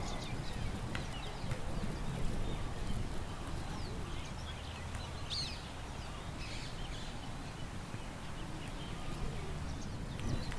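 Outdoor park ambience: small birds chirping and calling here and there, with one clearer call about halfway through, over a steady low rumble of wind.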